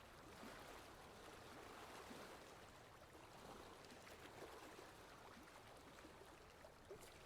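Faint water lapping and trickling, with scattered small splashes and drips.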